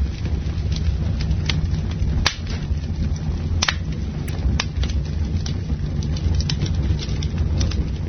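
Bonfire burning: a steady low rumble of flame with scattered sharp crackles and pops from the burning wood, a few of them louder, the strongest a little over two seconds in.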